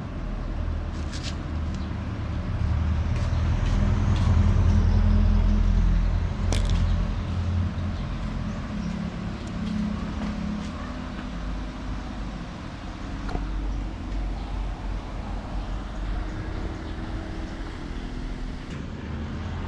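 Engine of a motor vehicle running nearby, a low rumble that swells a few seconds in and then eases off, with a few light clicks and taps over it.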